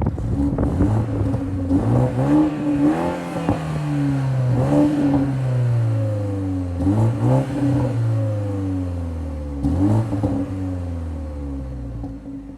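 2022 BMW 330i's 2.0-litre turbocharged four-cylinder engine and exhaust revving, about four times: each time the pitch climbs quickly and then sinks slowly back down. The sound fades near the end.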